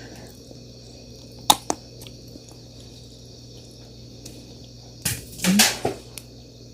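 Shells of native Korean chestnuts being cracked open: two sharp cracks about a second and a half in, then a louder cluster of crunching cracks near the end.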